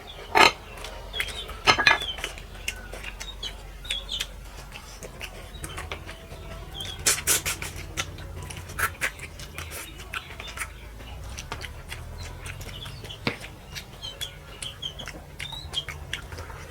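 Eating at a plate: scattered short clicks and clinks of dishes and lip smacks, with birds chirping briefly in the background.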